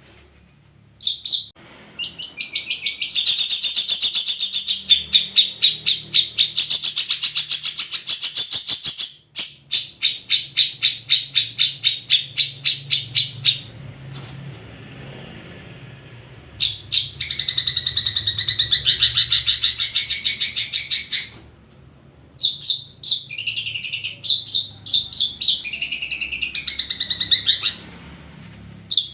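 Long-tailed shrike (cendet) singing: loud bursts of rapid, high chattering and trilled notes, some strings pulsing at about five notes a second, broken by short pauses between phrases.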